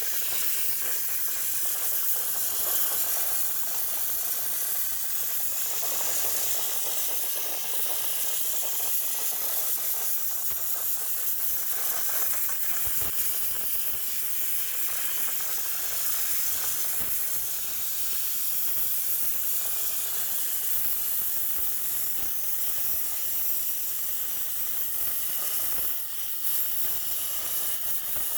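Handheld steam cleaner jetting a continuous, steady hiss of steam onto a heat pump dryer's condenser coil. The hiss dips briefly near the end.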